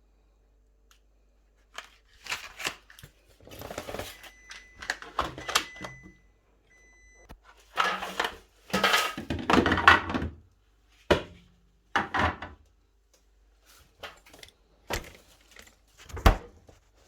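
Items being handled in a fridge freezer: an irregular run of knocks, clatters and rustling as plastic storage bins and food packs are moved and set down, starting after a short pause.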